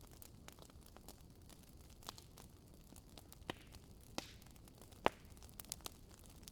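Wood fire crackling in a fireplace: irregular sharp pops and snaps over a faint steady hiss, with the loudest pop about five seconds in.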